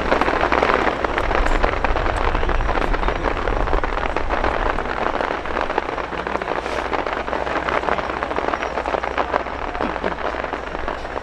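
Aerial fireworks crackling: a dense mass of tiny pops that merge into a rain-like hiss, slowly dying down.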